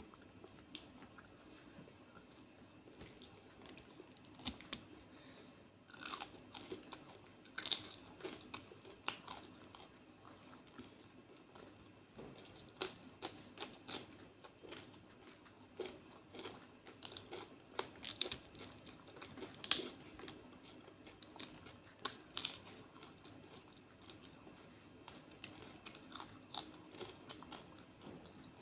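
Close-miked eating: a person chewing and crunching mouthfuls of rice with fried prawns eaten by hand. Sharp, irregular clicks and crunches start about six seconds in and go on in an uneven run.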